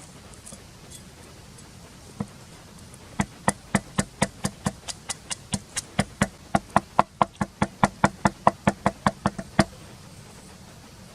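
Rapid, even knocks of a knife chopping on a wooden board: one stroke, then a run of about 25 strokes at roughly four a second, stopping near the end.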